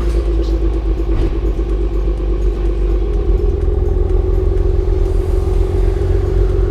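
Exhaust note of a second-generation Kia K7 3.0 gasoline V6 through a custom cat-back dual-valve exhaust, running at steady engine speed with a deep, even tone. The pitch does not rise or fall.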